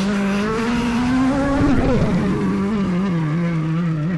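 Rally car engine running hard, its pitch climbing steadily, then falling sharply about two seconds in and holding a lower, wavering note.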